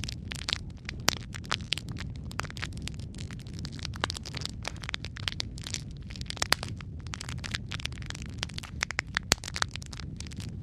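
Wood fire burning in a fireplace: dense, irregular crackles and pops of burning logs over a steady low rumble of the flames.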